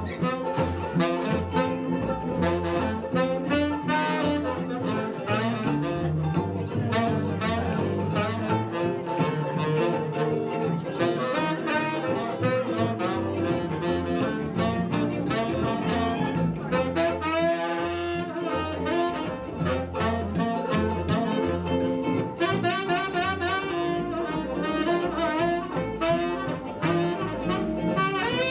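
Tenor saxophone playing an instrumental solo in a jump-blues tune, over guitar and bass with no drums.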